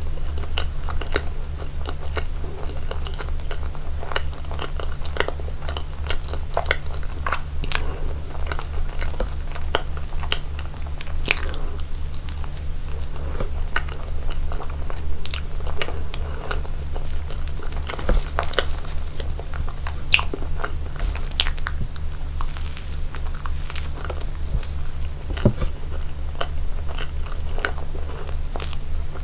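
Close-miked eating sounds of a person eating cake: chewing and biting with many short, irregular mouth clicks. A steady low hum runs underneath.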